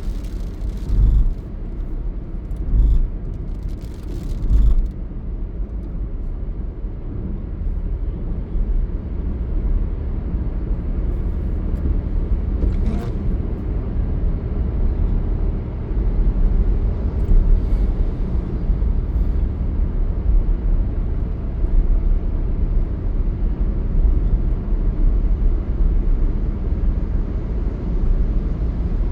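Steady low rumble of a vehicle on the move, with three dull thumps in the first few seconds.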